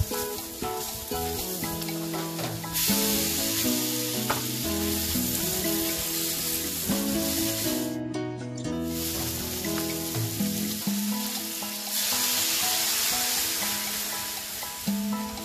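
Aubergine and chicken pieces sizzling in hot oil in a frying pan while being stirred with a silicone spatula. The sizzling gets louder about three seconds in, breaks off briefly halfway through, and swells again later.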